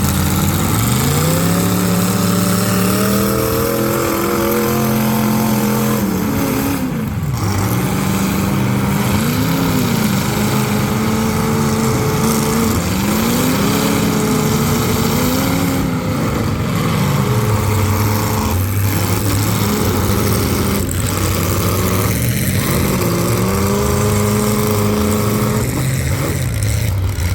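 Full-size demolition derby car engines revving up and down over and over, pitch rising and falling every second or two, with a few sharp bangs of cars hitting.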